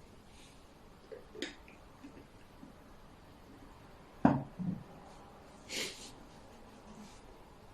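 Xiangqi pieces knocking down onto the board: a light click, then a sharp loud clack about halfway through with a softer second knock just after, and a short sniff or breath soon after.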